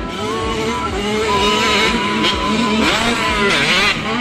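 Several motocross bikes racing together, their engines revving, with the pitches rising and falling over one another as the riders open and close the throttle.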